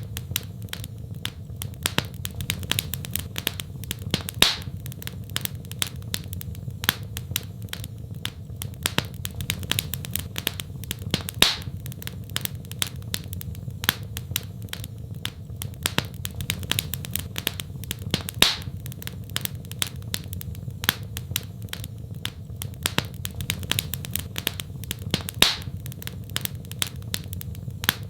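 Wood fire crackling in a fireplace: frequent small crackles over a steady low rumble, with a louder pop about every seven seconds.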